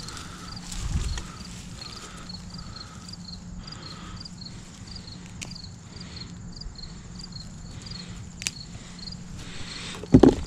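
Crickets chirping steadily in quick, evenly repeated pulses, over a low steady hum. A short louder sound comes near the end.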